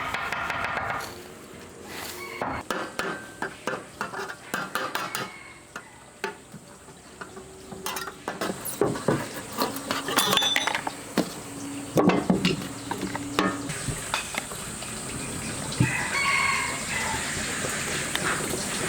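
Irregular light knocks and clinks of hard objects being handled and set down.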